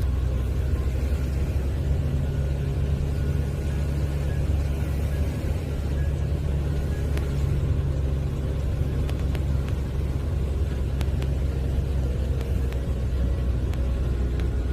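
Steady low engine and road rumble inside a moving car's cabin, with a few faint light ticks in the second half.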